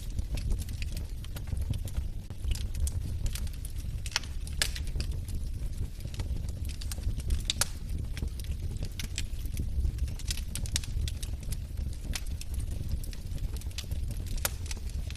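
Log fire in a fireplace crackling: irregular sharp pops and snaps, a few louder than the rest, over a steady low rumble of the burning fire.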